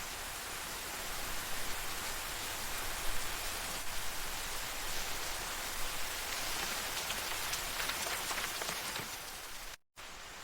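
Steady rain falling, with many small drop ticks on a surface. The sound cuts out completely for a moment near the end.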